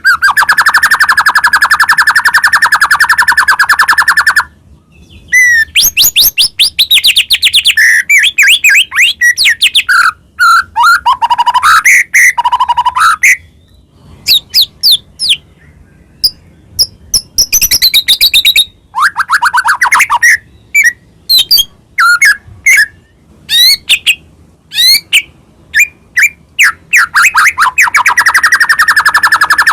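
White-rumped shama (murai batu) singing loudly and continuously: a fast rattling trill, then varied whistled phrases and sharp chirps broken by short pauses, and the fast trill again near the end.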